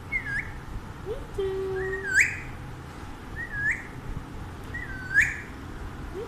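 Alexandrine parakeet giving a series of four short whistled calls, each a quick dip and rise in pitch, with one held lower note about a second in.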